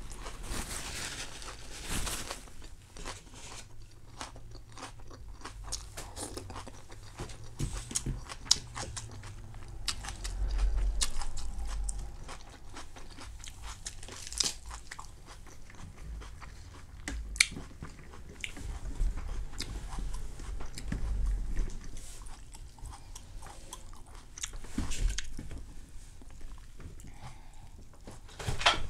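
Close-up eating sounds: a person biting and chewing crispy rice pancake (banh xeo), with irregular sharp crunches through the chewing.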